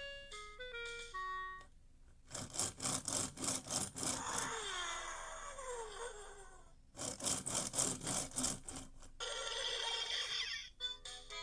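VTech Go! Go! Smart Wheels race car's electronic speaker playing a short beeping tune, then toy sound effects: fast even pulses with sliding falling tones, a second run of pulses and a warbling buzz, before the beeping tune starts again near the end.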